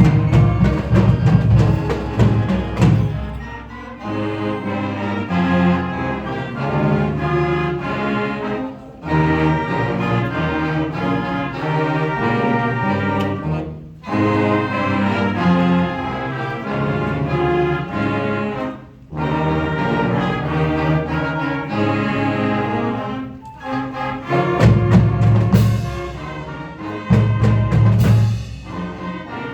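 Marching band playing: brass chords in phrases with short breaks between them, over loud drum and percussion strokes in the first few seconds and again near the end.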